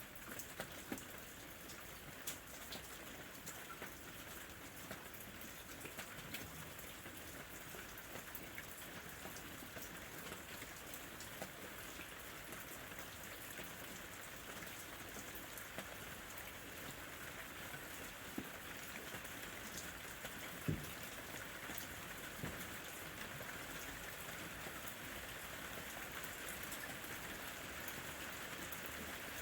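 Steady rain falling on a lemon tree, with individual drops ticking on leaves and fruit and one louder drop about two-thirds of the way through.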